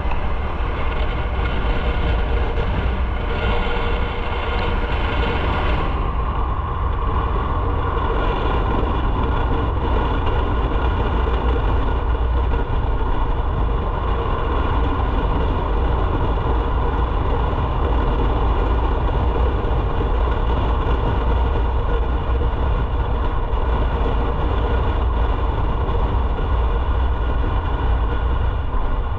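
Motorcycle engine running steadily with a heavy low rumble and a steady hum of overtones; the brighter upper hiss drops away about six seconds in.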